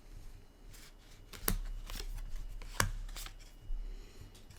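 Trading cards being handled and flipped through by hand, with several sharp snaps and clicks as cards are moved and set down, the loudest about a second and a half in and just before three seconds.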